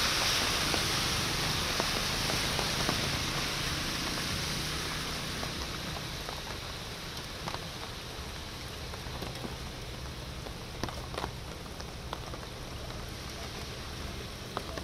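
Steady hiss of heavy rain and floodwater on a waterlogged street, easing somewhat over the first several seconds, with scattered faint ticks of drops.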